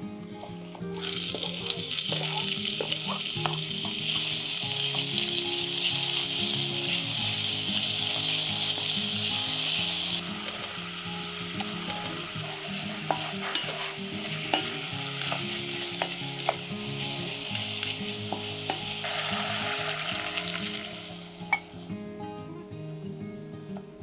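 Garlic, tomatoes and mushrooms sizzling in oil in a cast-iron pot while a wooden spatula stirs and taps. The sizzle jumps louder about a second in and again at four seconds, drops back sharply around ten seconds, swells briefly near twenty seconds and fades near the end.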